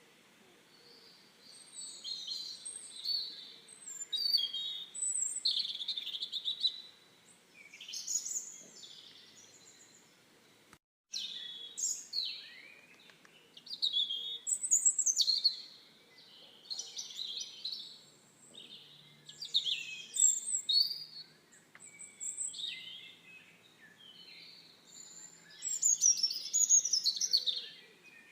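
Songbirds chirping and singing in a steady run of short, quick phrases, several overlapping at times. The sound drops out to silence for a moment about eleven seconds in.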